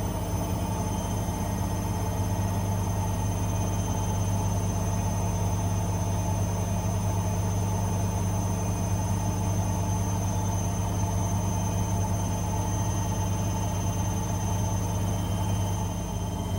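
AEG Lavamat Exclusiv 6469AFL front-loading washing machine running with a steady low hum and a thin high whine over it.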